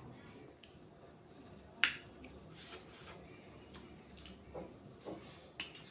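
A person eating egg fry and white rice close to the microphone: chewing with wet lip smacks and mouth clicks, one sharp smack about two seconds in and several softer ones near the end.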